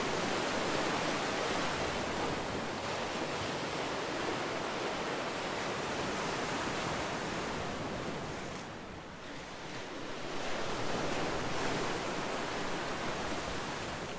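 Ocean waves: a steady wash of surf that eases off about two-thirds of the way through, then builds again.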